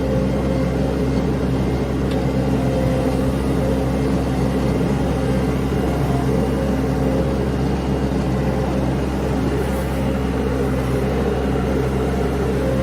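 An engine running at a steady speed, a constant hum with no revving or change in pitch.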